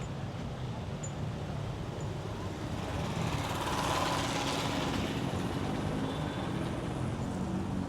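Road traffic, with a vehicle passing close by: a steady low rumble and a rush of noise that swells about three seconds in, peaks around four seconds and then fades.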